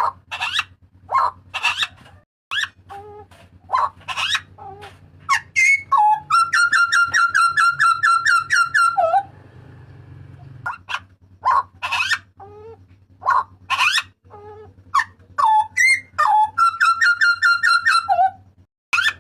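Hooded butcherbird (Papuan butcherbird) giving loud, sharp whistled calls in quick succession, with a fast run of repeated notes about six seconds in lasting some three seconds, and a shorter run near the end.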